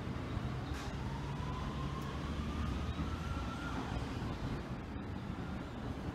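Seibu 2000 series electric train pulling out and accelerating away, a steady low running rumble. A motor whine rises in pitch over the first few seconds, then drops away.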